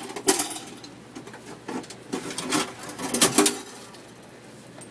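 A handful of sharp metallic clanks and rattles, with a quick cluster of knocks about three seconds in. This is the sound of a fire extinguisher being unclasped and worked free from its mounting bracket.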